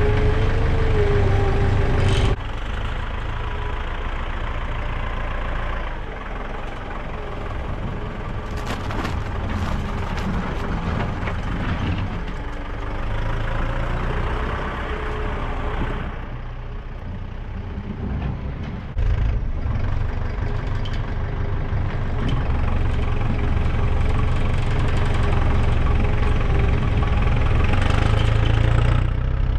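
Tractor engine running steadily with a deep rumble. It drops off sharply about two seconds in and picks up again about two-thirds of the way through.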